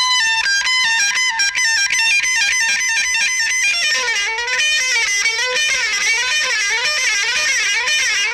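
Electric guitar solo: quick runs of single notes, then from about four seconds in, bent notes that waver up and down.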